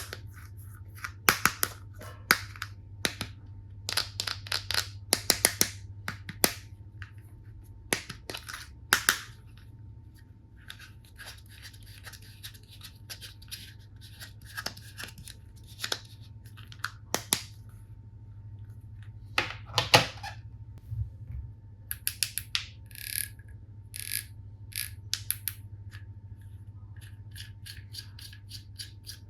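Hard plastic toy tool pieces being handled: irregular clicks and taps, with stretches of crinkling plastic packaging.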